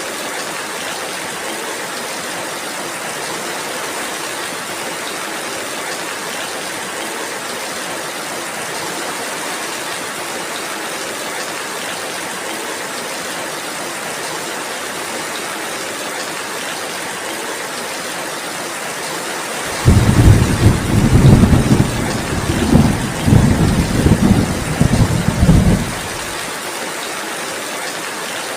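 Steady rainfall as an even hiss, broken about twenty seconds in by a sudden, loud, rolling thunderclap that swells several times and dies away after about six seconds.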